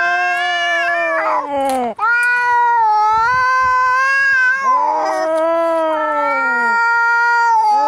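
Cats yowling in a fight: long, drawn-out caterwauls, wavering and sliding in pitch, one after another with at times two voices overlapping and a brief break about two seconds in.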